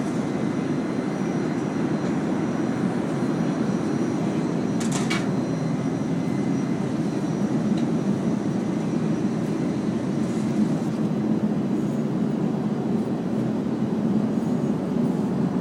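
Steady, low rushing noise inside an Airbus A380 passenger cabin, even throughout, with a brief click about five seconds in.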